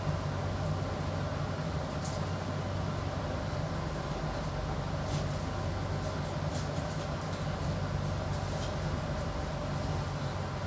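Steady running noise inside a passenger carriage of a moving train: a continuous low hum, with faint scattered ticks.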